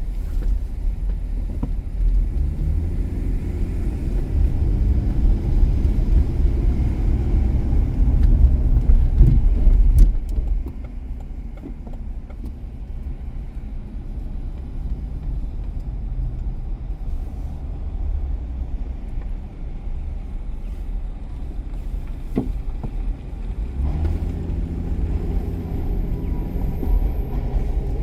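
A car driving: a low engine and road rumble that grows over the first ten seconds, drops off abruptly just after a click about ten seconds in, then rises again with an engine tone about 24 seconds in as the car pulls away.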